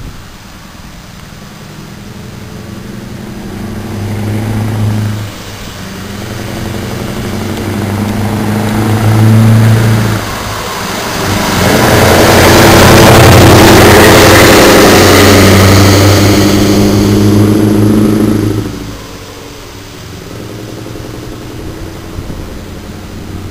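Scania 164 580 V8 truck engine pulling under load. Its note builds, with two short breaks like gear changes about five and ten seconds in. It is loudest for several seconds as the truck passes close by, then drops away.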